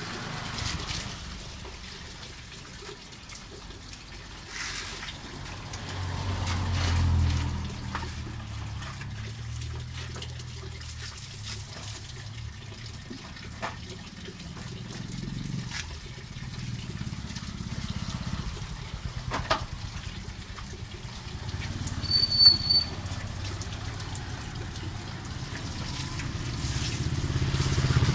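Rain falling on a wet street, with vehicles driving by on the wet road: a low engine rumble swells about seven seconds in and again near the end. A short high beep sounds once a little past the twenty-second mark.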